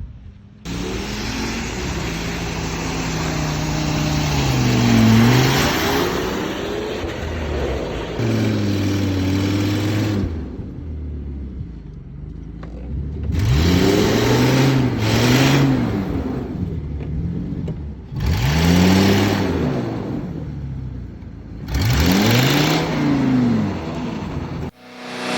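Ford F-250's 6.8-litre V10 gasoline engine revving, its pitch rising and falling over and over. It starts abruptly about half a second in, eases off briefly in the middle, then gives three quick rev blips in the second half.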